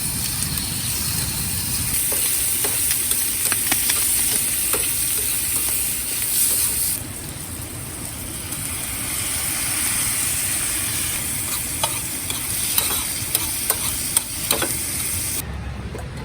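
Food sizzling in a frying pan: a steady high hiss with scattered small ticks and clicks. The hiss drops abruptly about seven seconds in.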